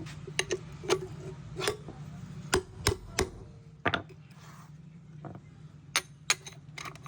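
About a dozen sharp metallic knocks at an uneven pace: a swingarm axle used as a drift being struck to knock a wheel bearing out of a motorcycle rim. A steady low hum runs underneath.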